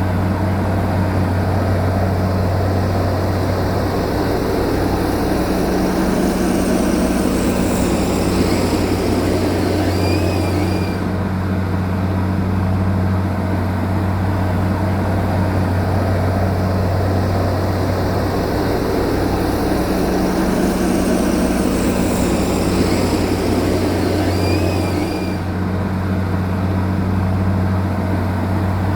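Heavy machinery's diesel engine running with a steady low drone, with a faint short high chirp twice.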